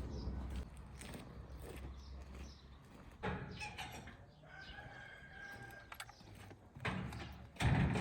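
A rooster crowing once in the middle, among scattered knocks and rustles, with a louder clatter near the end.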